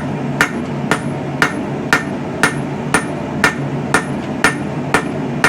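Hand hammer forging hot coil-spring steel on an anvil, drawing out the bar: about eleven even blows, roughly two a second, each with a short high ring, over a steady low rumble.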